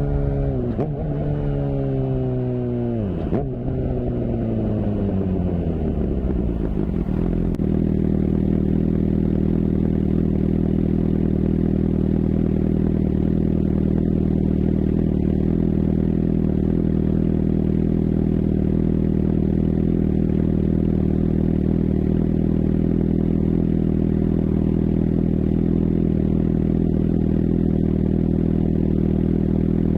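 Suzuki GSX-R750's inline-four engine and exhaust, its revs falling away over the first several seconds, with a sharper drop about three seconds in, then settling into a steady idle for the rest of the time.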